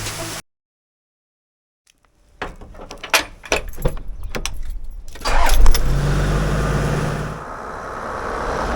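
Keys jangling and clicking, then a car engine starts about five seconds in and runs on steadily.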